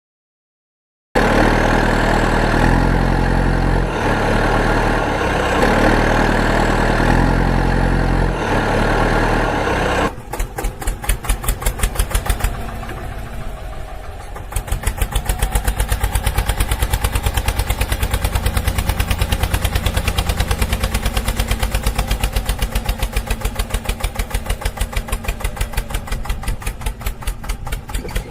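An engine running with a steady fast chugging beat, like a tractor idling. It comes after a second of silence and a louder stretch of changing low tones that lasts to about ten seconds in.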